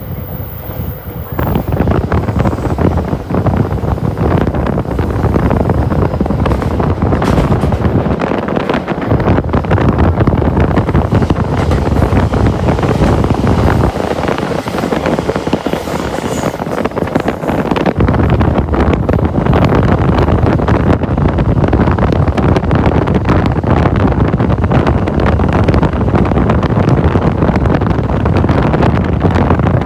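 Loud, steady rushing noise with heavy wind buffeting the microphone. The low rumble drops away briefly about eight seconds in, and again for a few seconds around a quarter of a minute in.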